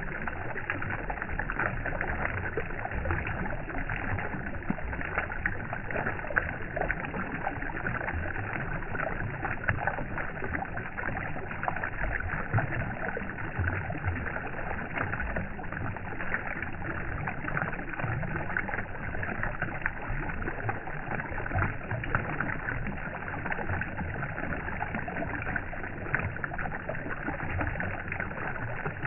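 A steady rushing noise with a fine crackle, even in level.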